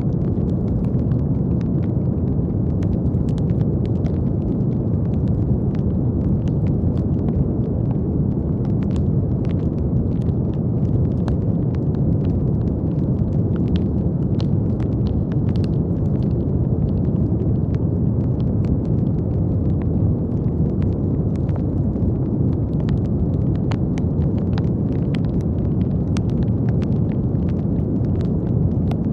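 Steady brown noise: a deep, even hiss weighted to the low end, with faint scattered clicks and crackles over it.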